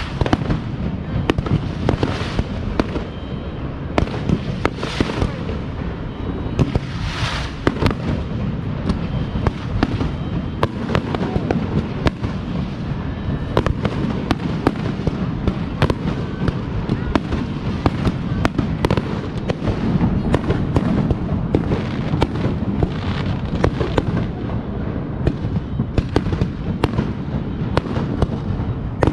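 Aerial fireworks display: a steady run of sharp bangs and crackling pops, with several longer hissing bursts in the first eight seconds, over a continuous low rumble.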